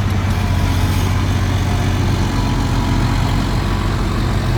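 Diesel truck engine running steadily at low revs, a deep even rumble with no revving.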